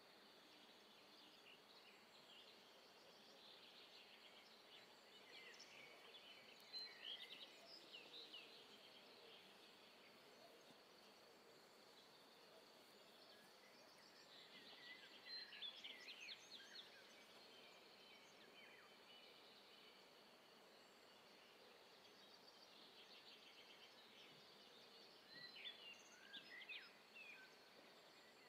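Near silence: faint outdoor ambience with birds chirping in three short bursts, about six, fifteen and twenty-six seconds in.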